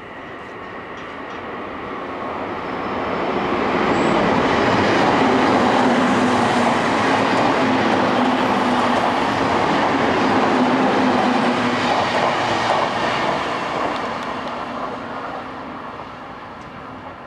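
Odakyu Romancecar EXE electric train passing at speed on a curve. The running noise of wheels on rail builds over a couple of seconds, stays loud for about ten seconds with a steady low hum under it, then fades away.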